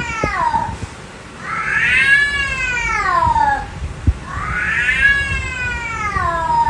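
Domestic cat yowling: long drawn-out meows of about two seconds each, rising and then falling in pitch, repeated with short gaps over a low background rumble.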